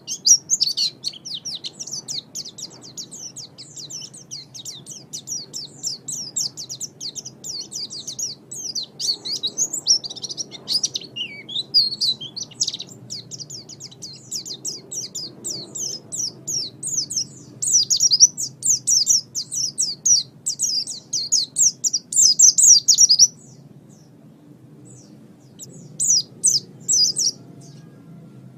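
A songbird singing a fast, unbroken chattering song of high, quickly falling notes. It breaks off about 23 seconds in and starts again a few seconds later.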